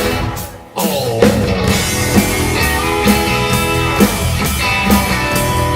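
Rock band playing an instrumental passage with guitar and drum kit and no vocals. The band stops dead for about half a second near the start, then comes back in on a steady beat.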